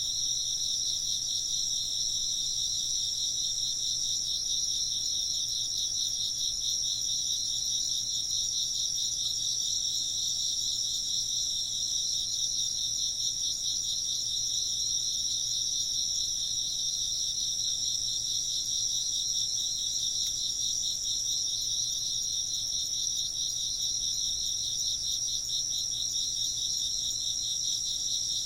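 Chorus of chirping insects: a fast, evenly pulsing high chirp under a steady, higher continuous trill, unbroken and even throughout.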